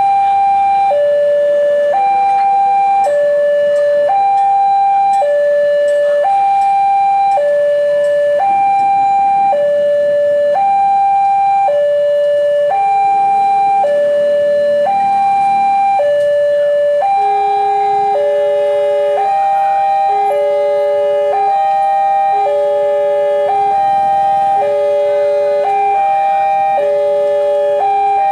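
Electronic two-tone warning alarm of a railway level crossing, swapping evenly between a high and a low note about once a second. About two-thirds of the way through, a second alarm with a lower note and a quicker swap joins in and the two sound together.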